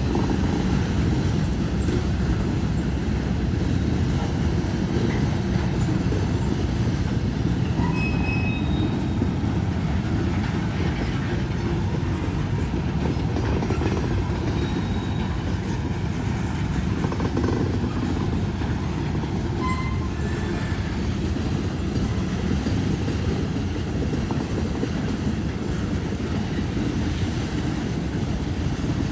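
A train rolling past: a steady low rumble of wheels on rail, with a few brief high-pitched wheel squeals now and then.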